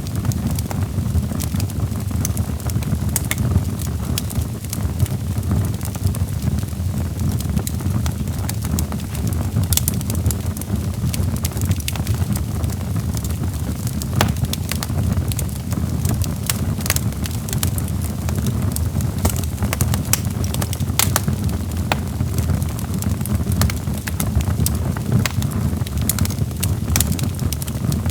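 Wood fire in a fireplace crackling, with frequent irregular sharp pops and snaps of burning logs over a steady low rumble of the flames.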